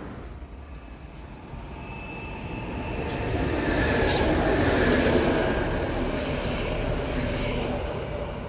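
Passenger train passing, its rumble swelling to a peak around the middle and then fading, with a faint high whine and a single sharp click at the loudest point.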